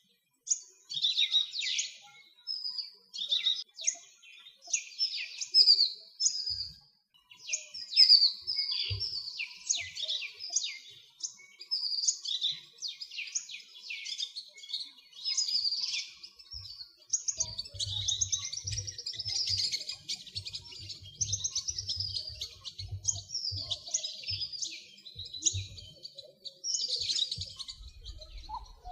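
Many small songbirds chirping and singing at once, a dense run of quick high notes and short trills. Faint low thumps come in about halfway through.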